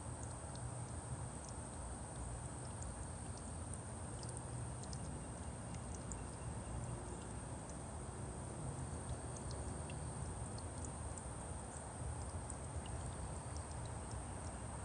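Small birds giving short, scattered high chips and calls over a steady outdoor background of hiss and low rumble, with a thin constant high whine throughout.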